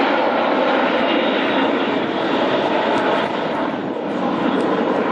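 L-39C Albatros jet trainers flying past, their turbofan engines making a steady, loud rushing noise that dips slightly a little after three seconds in.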